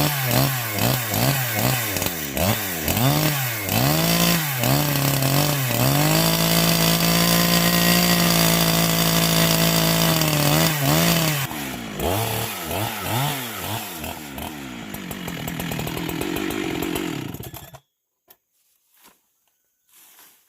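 Chainsaw engine revved in quick repeated bursts, then held at high speed for about five seconds. It then drops to a lower, uneven speed and cuts off suddenly near the end, leaving only a few faint ticks.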